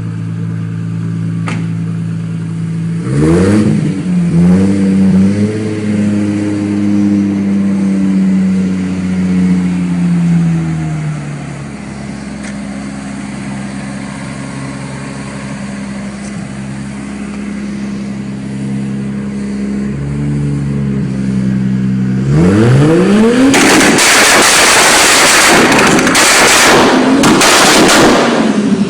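An engine idling is revved about three seconds in, held high for several seconds and eased back down to idle. Near the end it is revved sharply again and the exhaust pops and crackles rapidly, the loudest part.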